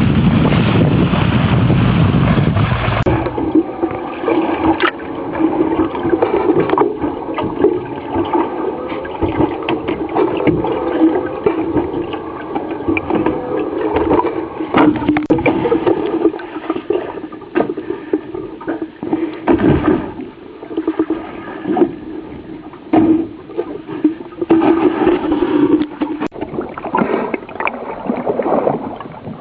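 Water sloshing and gurgling along a boat's hull, with many small splashes and a steady low hum beneath. For the first three seconds, wind buffets the microphone.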